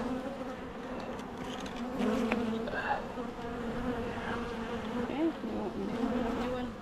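Many honeybees buzzing around an open hive, a steady hum, with one bee's pitch rising and falling as it passes close about five seconds in.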